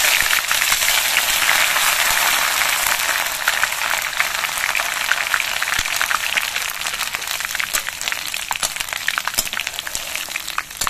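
Ginger paste frying in hot mustard oil in a kadai: a loud sizzle full of spitting crackles that slowly dies down.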